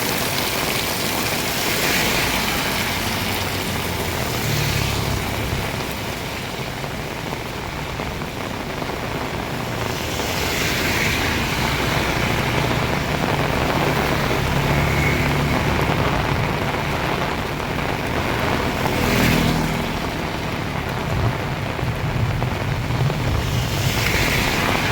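Heavy rain pouring steadily, with the low hum of a vehicle engine in the mix from about five seconds in and several brief swells of hiss.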